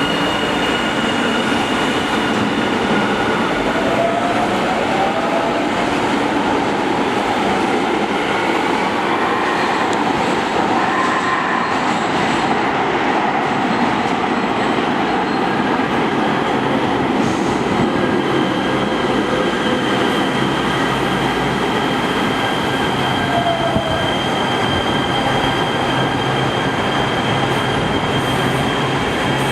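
Electric metro train running on the rails: a steady loud rush and rumble of wheels on track, with thin high whines and electric motor tones that glide up and down in pitch.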